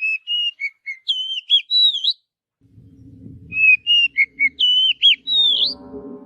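Oriental magpie-robin (kacer) singing: the same phrase of clear, varied whistles is given twice, each about two seconds long, with a pause between. A faint low noise sits under the second phrase.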